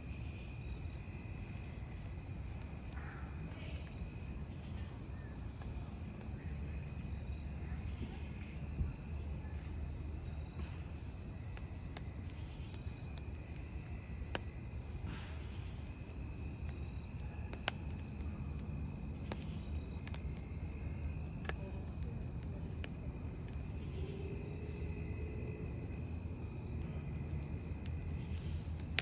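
Crickets chirring steadily over a crackling wood campfire, with a low rumble of flames and a few sharp pops from the burning wood.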